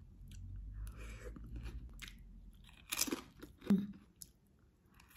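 Close-up chewing and crunching of ridged potato chips with avocado paste: a soft run of small crunches, with two louder crunches about three seconds in.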